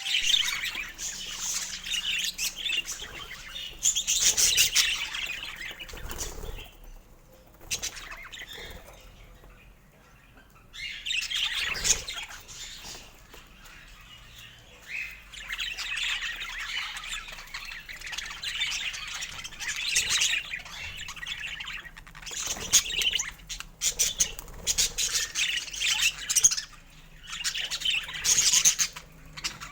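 Budgerigars chattering in dense bursts of chirps and squawks, with a quieter lull about a third of the way in.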